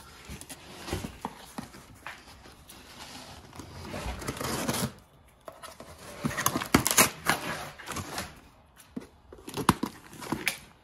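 Packing material rustling, crinkling and tearing as items are pulled out of a box, with scattered knocks. The loudest bursts cluster in the second half.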